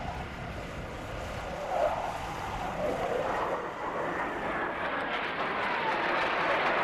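Blue Angels F/A-18 Hornet jets approaching head-on for a crossing pass, their jet engine noise growing steadily louder, with a tone sliding down in pitch through the middle.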